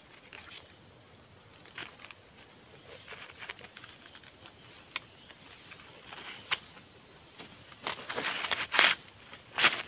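Steady high-pitched drone of forest insects, with scattered short rustles and clicks; two louder rustling knocks come near the end.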